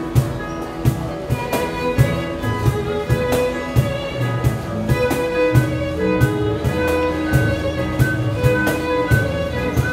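Korean fusion string ensemble playing a pop cover: a bowed haegeum carries the melody in held notes over plucked gayageum, with a steady drum beat.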